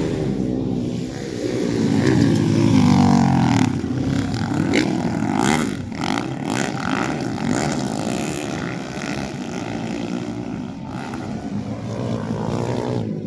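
Motocross dirt bikes racing, their engines revving and rising in pitch, loudest about two to three and a half seconds in, then running on more evenly.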